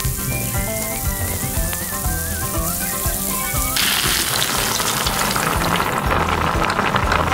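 Food hitting hot oil in a miniature pan: a dense sizzling and crackling that starts suddenly about halfway through, over background music.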